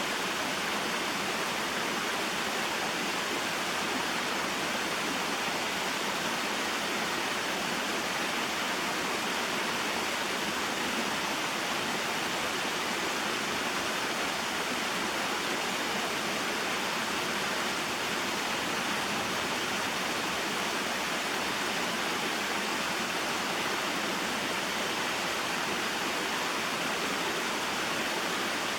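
Small waterfall and stream flowing: a steady, even rush of water.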